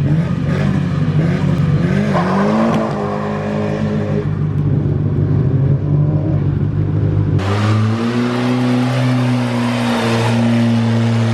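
Car engine running, its pitch rising briefly about two seconds in, then changing abruptly about seven seconds in to a steadier, brighter engine note.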